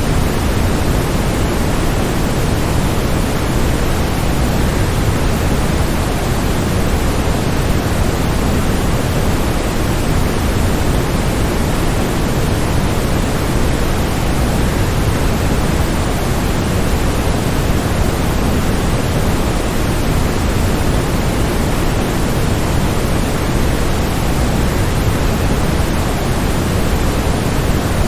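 Waterfall: a steady, unbroken rush of falling water, heavy in the low end, with no splashes or changes standing out.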